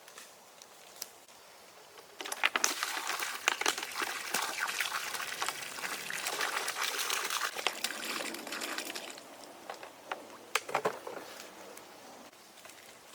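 Liquid being poured for about seven seconds, a spattering splash that starts about two seconds in and tails off, followed by a few light knocks.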